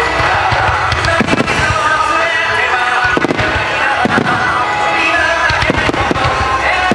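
Aerial fireworks bursting: several sharp bangs with crackling, spread across the few seconds, over continuous music.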